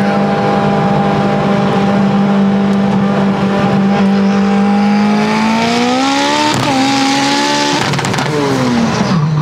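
Built, big-turbo Mitsubishi Evo 8's turbocharged 4G63 four-cylinder heard from inside the cabin. It cruises at steady revs, then pulls hard about five and a half seconds in, with a quick upshift about a second later. Around eight seconds in the driver lifts off and the revs fall away under a rush of noise, cutting the pull short.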